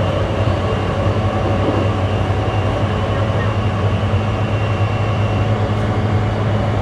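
Onboard running sound of a JR East E235-1000 series electric train at steady speed: an even rumble of wheels on rail with a steady low hum and a faint high tone.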